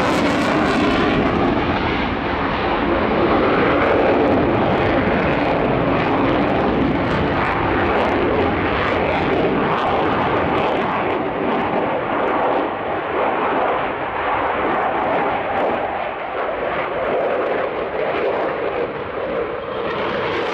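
Aircraft engine noise: a loud, steady roar of a passing airshow aircraft, easing a little in the second half.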